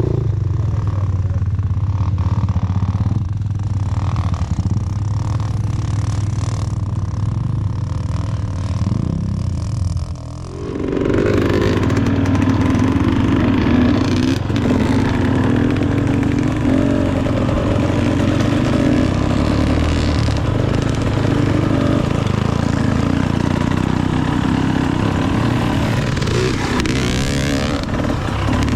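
Enduro dirt bike engine running at low revs. About ten seconds in it briefly drops away, then comes back louder and higher as the bike is ridden on under throttle.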